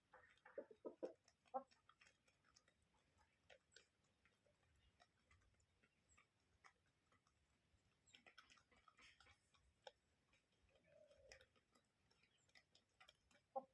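Near silence with faint, irregular ticks and clicks, and a few short, slightly louder sounds about a second in and again at the very end.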